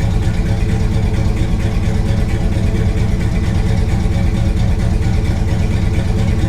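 1962 Chevy Impala's 350 small-block V8 running steadily on a cold start, a low rumble with no let-up.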